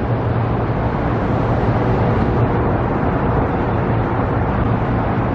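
A vehicle running steadily: a constant low hum under an even rushing noise, with no changes.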